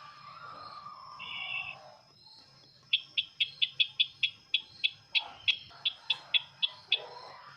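Sisintar bird call used as a trapping lure: a short buzzy trill, then from about three seconds in a rapid series of sharp, high 'tik' notes, about three or four a second.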